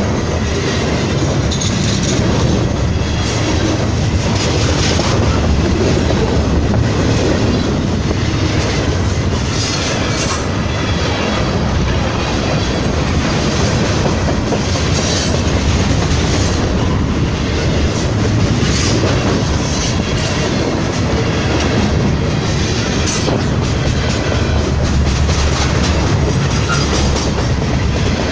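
A train rolling past close by, its cars' wheels clacking over the rail joints in a steady, loud, continuous rumble.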